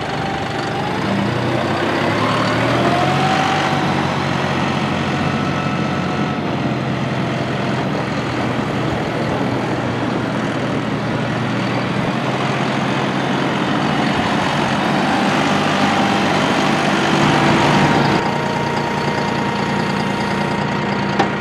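John Deere 5055E tractor's three-cylinder turbo diesel running, with engine speed rising about two seconds in and holding steady. It swells again later and drops back to a lower, steady speed about eighteen seconds in.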